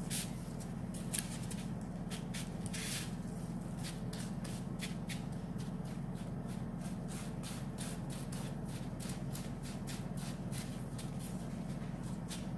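Tissue rubbing and dabbing on fondant as gel food colour is smeared around: a run of short, irregular scratchy strokes over a steady low hum.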